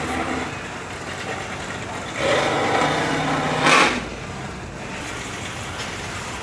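Car engine running close by, getting louder for about two seconds in the middle with a sharp peak just before the fourth second, then settling back into the steady background rumble.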